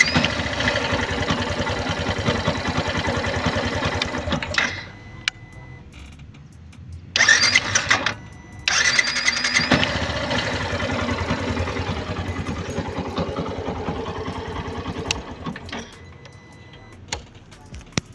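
Yamaha Fazer 150's single-cylinder four-stroke engine started on its newly fitted electric starter motor, catching at once and running steadily for about four seconds before it stops. After a short loud burst it is started again and runs on, fading near the end.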